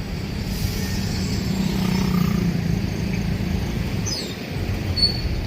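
Steady street traffic: engines of passing and idling vehicles running as a continuous low rumble, with a short falling high whistle about four seconds in.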